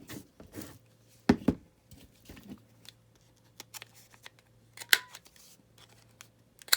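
Paper corners being cut round: a close pair of sharp snips about a second in, another near five seconds and one more at the end, with soft paper handling between.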